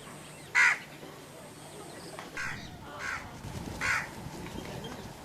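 A bird calling in the marsh: one loud, short call about half a second in, then three fainter ones about a second apart.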